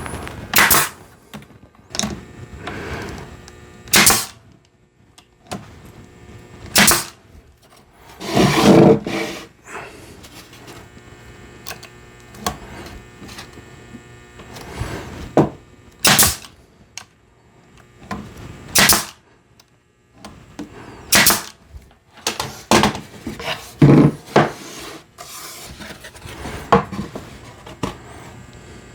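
Sharp knocks and clatter of wooden boards and tools being handled and assembled at a workbench, roughly one knock every two to three seconds, with a longer clatter about nine seconds in.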